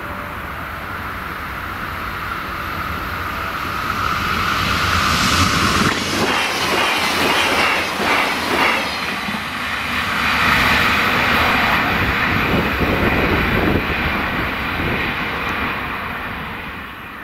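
A train passing close by over a level crossing: the rumble grows, is loudest for several seconds in the middle as the cars go by, then fades away near the end.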